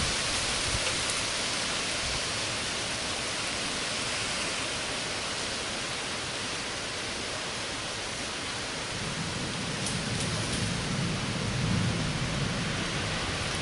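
Heavy rain falling steadily, with a low roll of thunder that swells about two-thirds of the way in and fades near the end.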